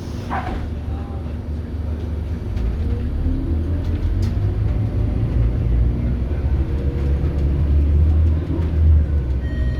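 Scania DC9 five-cylinder diesel engine of a Scania K280UB bus under load, growing louder with its note climbing more than once as the bus accelerates through the ZF Ecomat automatic's gears.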